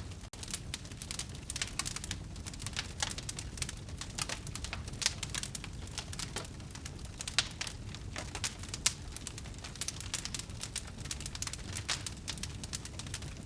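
Wood fire crackling in a fireplace: a dense, irregular stream of small pops with a few louder snaps, over a low steady rumble of the burning.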